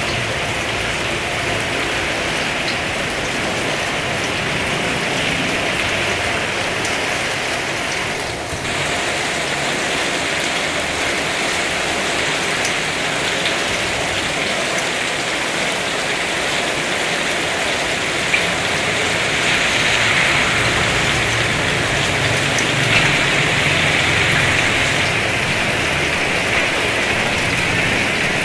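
Heavy rain pouring down steadily, a dense hiss of drops on surfaces with a few sharper ticks of drops hitting something close.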